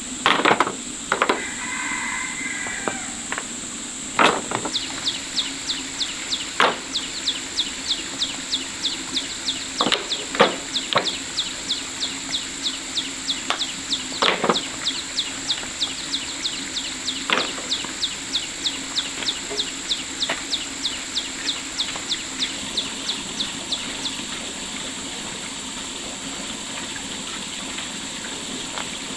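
Outdoor rural ambience. A steady high insect drone runs throughout. A fast, even run of short high chirps, about three a second, starts about four seconds in and stops about five seconds before the end. Several sharp knocks are scattered through the first half.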